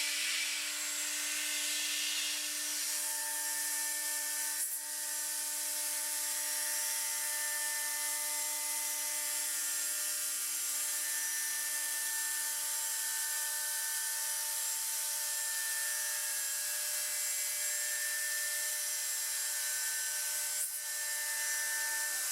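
CNC router spindle at 18,000 RPM taking a light 2D contour finishing pass in aluminium: a steady whine over the hiss of the cut, dipping briefly twice, about five seconds in and near the end.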